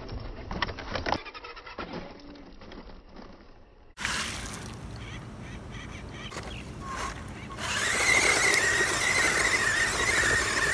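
Electric RC monster truck driving on wet mud and through a puddle. Near the end its motor gives a loud, steady, wavering whine; earlier come quick clicks and knocks.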